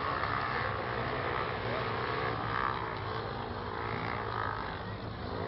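Motor vehicle engine running steadily at a low, even hum.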